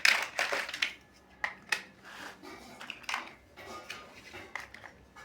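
Plastic building bricks clicking and clattering as they are handled and pressed together, in a string of irregular sharp clicks, loudest just at the start.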